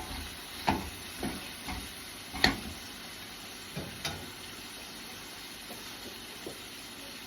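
Food sizzling in a pan with a steady hiss, while a utensil knocks against the pan about six times in the first few seconds, loudest about two and a half seconds in.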